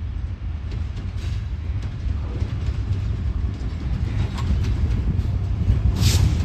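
Millat Express passenger train running on the rails, a steady low rumble that grows slightly louder, with a brief high screech near the end.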